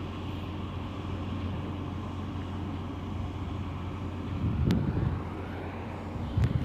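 Ship's engine droning steadily, with louder low rumbles about four and a half seconds in and again near the end.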